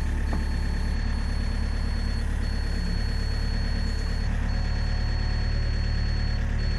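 Mini excavator's diesel engine idling steadily, with a thin high whine that breaks off briefly about every two seconds.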